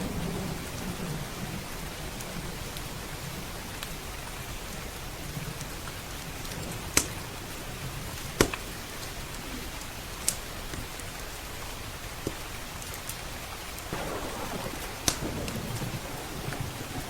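Steady rain with low rolling thunder at the start and again near the end. Five sharp pops from a crackling wood fire are scattered through it.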